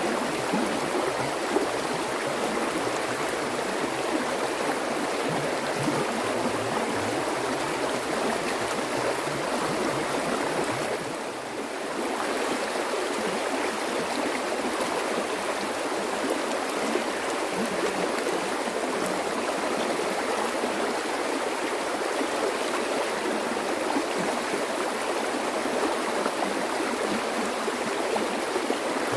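Water flowing steadily in a stream with an even rush, easing briefly about eleven seconds in.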